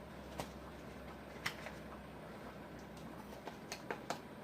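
A few faint, sharp clicks and light taps, scattered and irregular, from kitchen utensils and a container being handled while chicken broth base is added to a pot of soup.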